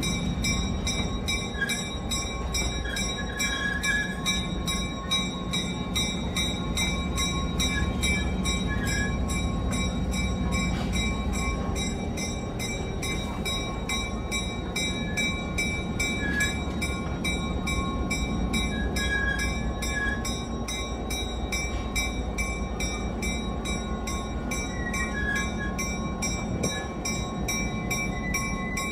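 California Western 'Skunk Train' running along the track: a steady rumble of the train and its wheels on the rails, with a few faint, thin, steady high tones.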